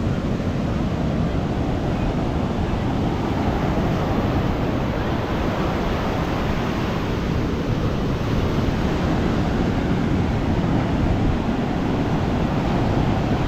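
Ocean surf washing onto a beach, a steady wash of noise mixed with wind noise on the microphone.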